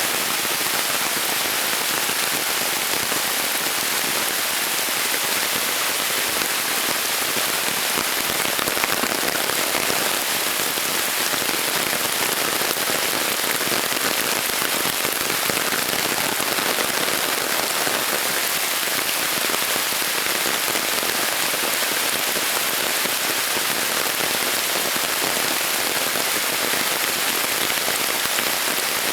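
Heavy rain falling steadily on rainforest vegetation, a dense even hiss of countless drops.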